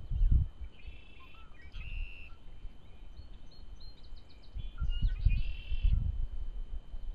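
Small birds chirping and trilling in short bursts, about a second in and again from about four to six seconds, over low rumbling bumps on the microphone that are loudest at the start and around five to six seconds.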